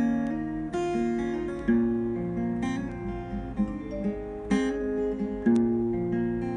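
Acoustic guitar strumming chords, with a new chord struck about once a second.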